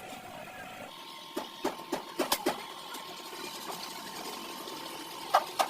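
A quick run of about five sharp knocks or taps a second or two in, with one more near the end, over a faint steady hum.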